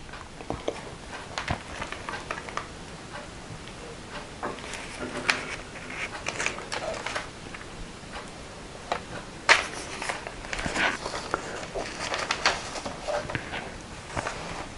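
Handling and turning the pages of a handmade junk journal: scattered soft rustles, taps and crinkles of thick paper and fabric embellishments.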